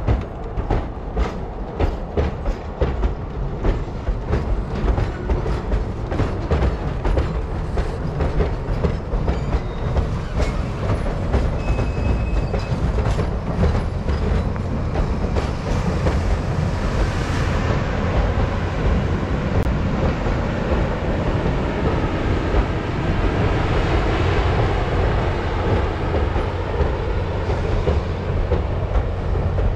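Mount Hood Railroad passenger coaches rolling over a railroad trestle bridge: wheels clicking regularly over the rail joints above a steady low rumble. Past the midpoint the clicks blend into a denser, steadier rumble with a hiss.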